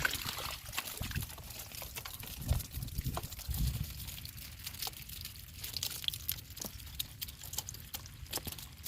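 Water pouring and trickling, with scattered drips and a few low splashes, as bamboo shrimp traps are lifted out of knee-deep water.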